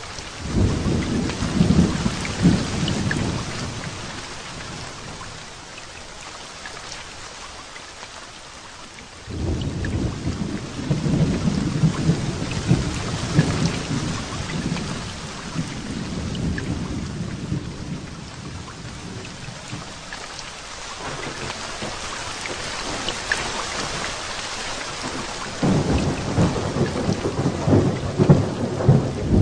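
Heavy rain falling steadily with rolls of thunder. One rumble starts right away and fades, another breaks in suddenly about a third of the way in and rumbles on for a long while, and a third rolls in near the end.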